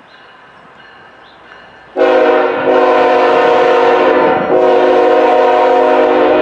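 Locomotive multi-chime air horn blowing, starting suddenly about two seconds in and held loud for over four seconds, with two brief breaks.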